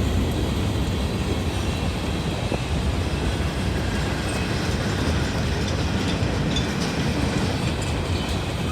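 A long CSX freight train of coal hoppers and mixed freight cars rolling past close by, a steady rumble of wheels on the rails with some clickety-clack.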